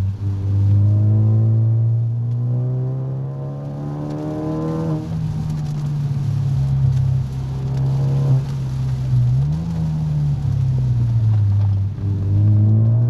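Car engine heard from inside the cabin, its note climbing steadily, then dropping suddenly about five seconds in as the throttle is lifted. It swells briefly again, dips near the end, and picks back up as the car slows and speeds up through the bends.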